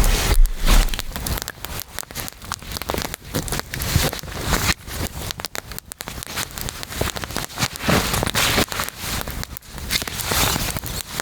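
Log campfire crackling, with dense irregular pops and snaps.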